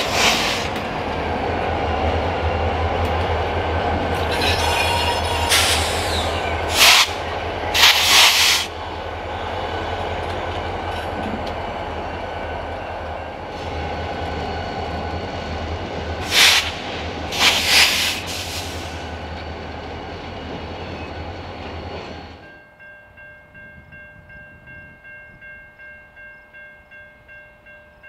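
Illinois Central diesel locomotives hauling a freight train, engines running with a steady low rumble and several short, loud bursts of noise over it. About 22 seconds in this gives way abruptly to a grade-crossing bell ringing steadily, about two strikes a second.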